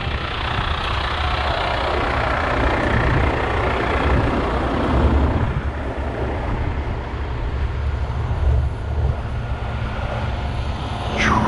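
Heavy truck diesel engine running steadily with a low rumble, as on a wrecker holding revs during a recovery. A short downward-sliding tone near the end.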